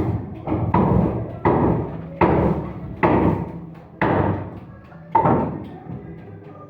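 A series of heavy strikes, each ringing out briefly. They come about one every three-quarters of a second, then slow and fade near the end.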